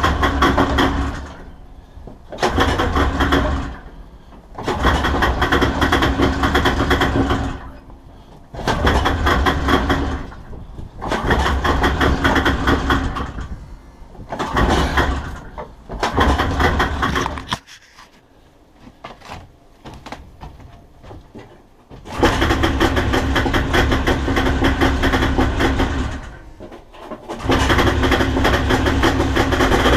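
The two-stroke engine of a 1980 Ski-Doo Blizzard 7500 snowmobile cold-starting in freezing cold, running in repeated bursts of one to two seconds that drop away between them. After a longer lull about two-thirds of the way in, it picks up again and keeps running near the end.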